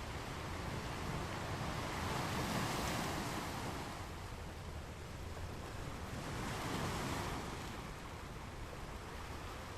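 Ocean waves on a beach: a steady wash of surf that swells twice, about two and a half seconds in and again about seven seconds in, as waves break and run up the shore.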